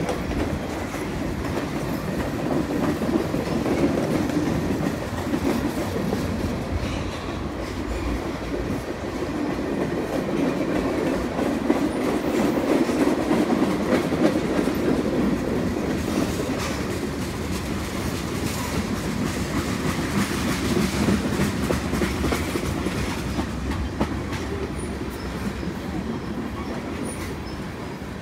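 Cars of a CN freight train, mostly tank cars, rolling past. Their steel wheels on the rails make a steady rumble that swells and eases, then fades slightly near the end.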